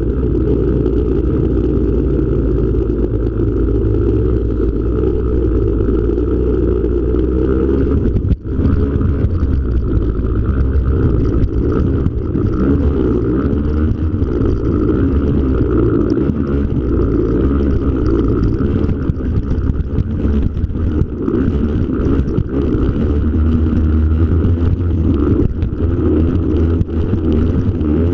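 Yamaha PW50's small two-stroke engine running as the bike is ridden, its revs rising and falling. The sound cuts out briefly about eight seconds in.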